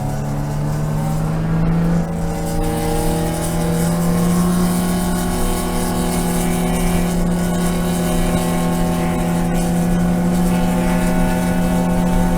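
BMW E36 M3 race car's straight-six engine under load, heard from inside the car, revs climbing slowly and steadily. There is a brief dip about two seconds in, then the pull continues.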